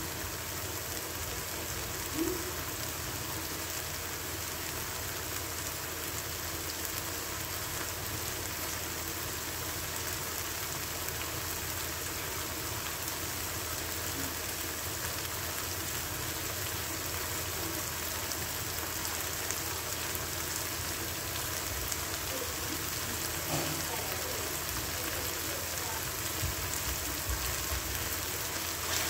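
Shrimp in salted-egg sauce simmering and sizzling in a wok, a steady fine hiss, left to cook down so the onion and bell pepper soften.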